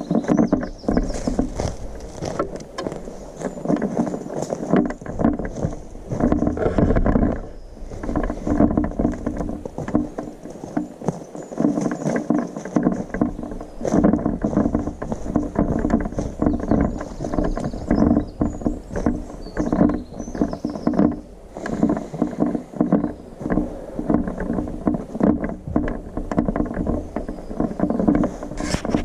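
Footsteps and clothing and camera-handling rustle of someone walking steadily on forest ground, with a few faint bird chirps behind.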